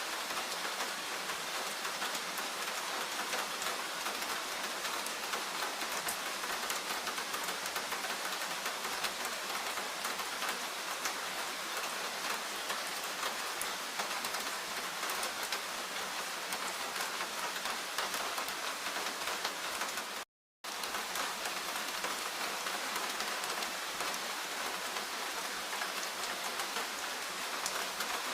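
Steady rain falling, a dense even hiss with many fine drop ticks. The sound cuts out completely for a split second about two-thirds of the way through.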